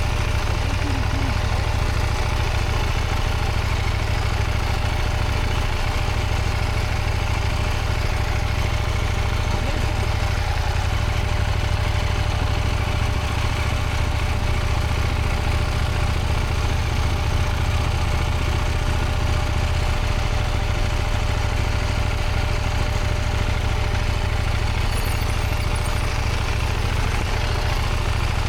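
Motorcycle engine running steadily at low revs, a constant low rumble without marked revving.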